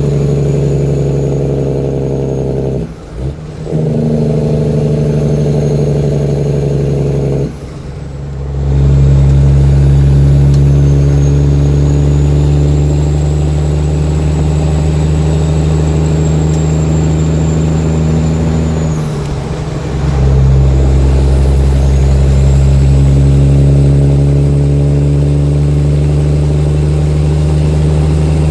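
Straight-piped Caterpillar C-15 (6NZ) diesel truck engine with 7-inch stacks pulling hard through the gears of a 13-speed transmission. Its sound drops off briefly at three gear changes, about 3, 8 and 19 seconds in, then comes back loud under load, with a faint high whistle rising after each shift.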